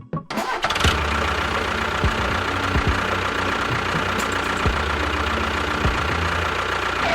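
A small motor running steadily with a faint high whine, starting abruptly just after the start and cutting off near the end.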